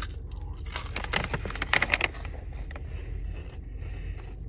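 Crisp crackling crunches of a freeze-dried Jolly Rancher being bitten and chewed, densest for about a second and a half near the start, then fainter, over a steady low rumble.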